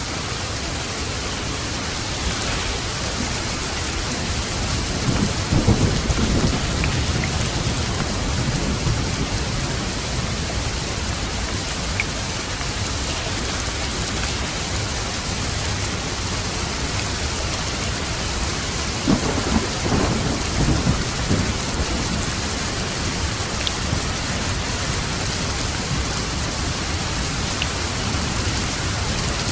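Steady rain with two rolls of thunder, one about five seconds in and another around twenty seconds in.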